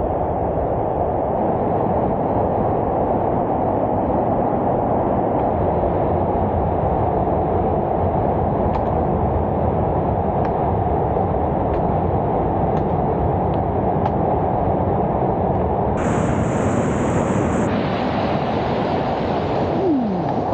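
Steady low rushing roar with no pitch to it. A brighter hiss joins about sixteen seconds in, and a short falling whistle comes near the end.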